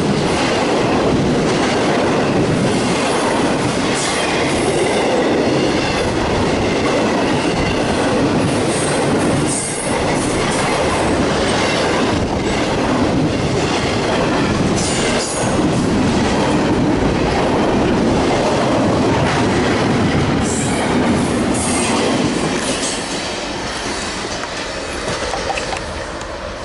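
CSX double-stack intermodal freight train's container-laden well cars rolling past close by: a steady wheel-on-rail rumble with scattered clicks over rail joints, fading toward the end as the train draws away.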